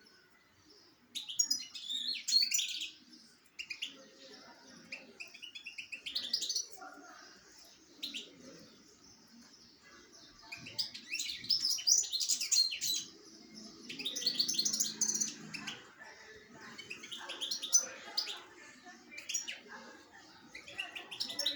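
Small songbirds chirping and twittering in repeated bursts of quick high chirps, with short quieter gaps between the bursts.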